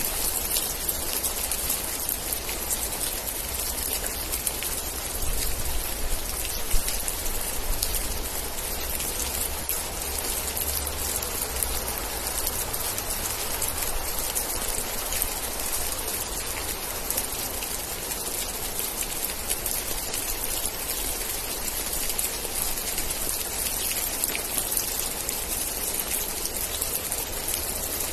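Steady rain falling, thick with fine drop impacts, over a low rumble that swells slightly in the middle.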